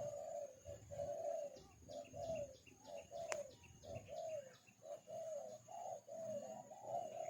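A dove-like bird cooing in a steady run of short low notes, about two a second. Quick high chirping ticks come in for a couple of seconds around the middle, with a single sharp click.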